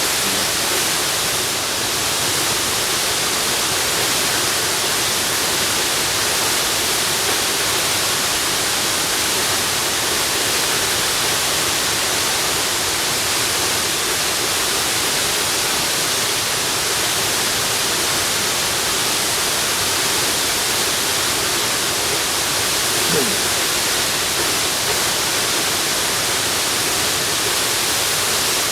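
Waterfall: a steady, even rush of falling water. A brief faint falling tone rises above it late on.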